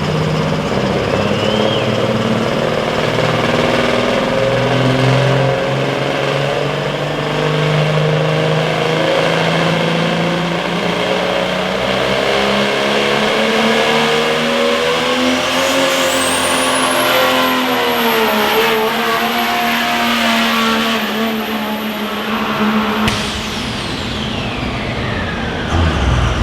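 Turbocharged pulling engine under heavy load, with a turbo whine that climbs to a high steady whistle. Near the end the whistle cuts off and winds down as the engine comes off the throttle.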